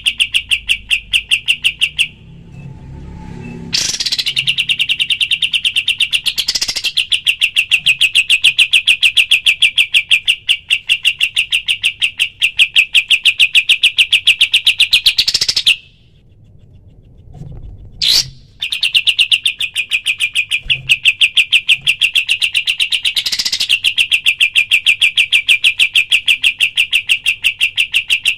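Kapas tembak bird giving its rapid-fire 'tembakan' call: long runs of fast, evenly spaced chattering notes. The runs stop briefly twice, after about two seconds and again around the middle, and a few sharp upward-sweeping notes mark where they break off or start again.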